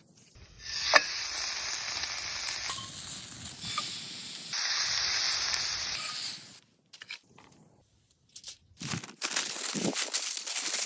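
Meat sizzling as it fries in a hot pan, a dense hiss that stops abruptly about six seconds in. After a short pause, crackling and a few knocks start again near the end.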